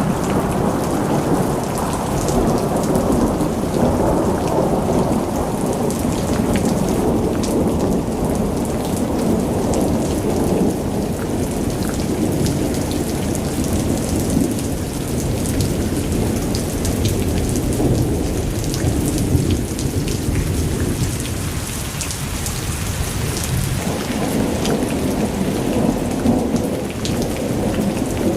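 Hailstorm: hail and heavy rain pelting down in a dense, steady roar, with many sharp ticks of individual stones striking.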